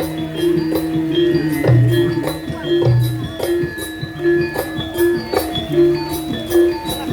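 Instrumental passage of Javanese jaranan band music, with a pitched note repeating on an even beat over a steady jingling percussion pulse.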